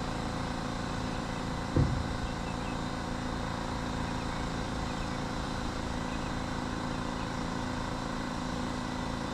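An engine running steadily at idle, with one thump about two seconds in.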